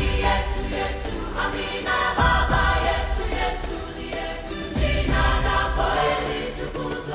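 Background music with a choir singing sustained chords over deep bass notes.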